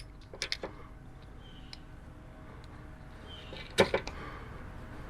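A few small clicks and knocks of hand work while gear oil is injected into a motorcycle's final drive. The loudest is a sharp knock about four seconds in, over a faint steady hum.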